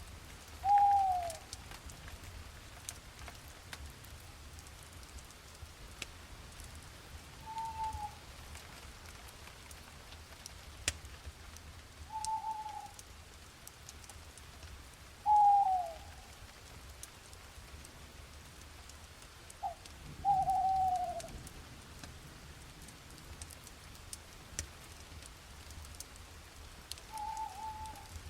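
Light rain with scattered drips, and an owl giving single short hoots that fall in pitch, about six of them spaced several seconds apart.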